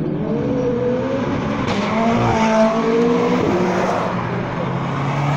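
Sports car engines running and revving as cars drive along the road, the engine pitch rising as one accelerates about half a second in and again around two to three seconds in.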